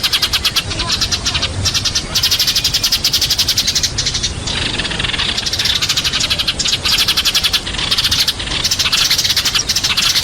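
A flock of sparrows chirping and chattering rapidly and without pause: the flock-calling chatter that is used as a lure call for sparrows.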